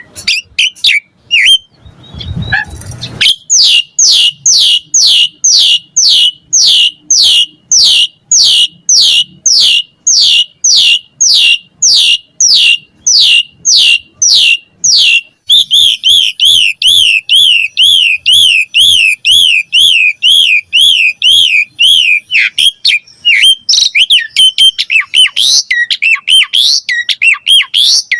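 Asian pied starling singing a varied song: a long run of repeated falling whistled notes, about two and a half a second, changing about halfway through into a fast zigzag warble and then mixed chattering calls. A brief low rumble sounds about two seconds in.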